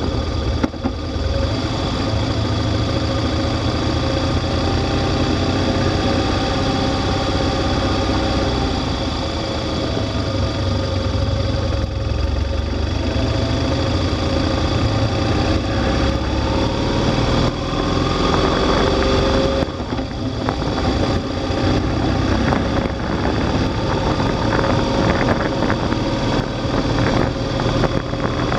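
Motorcycle engine running while riding at low speed. Its note holds mostly steady, rising and shifting for a few seconds past the middle as the throttle changes.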